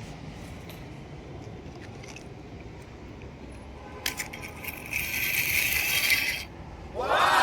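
Small metal diecast toy cars clicking and clinking, then a loud rattling jangle for about a second and a half. Near the end comes a tone that falls in pitch.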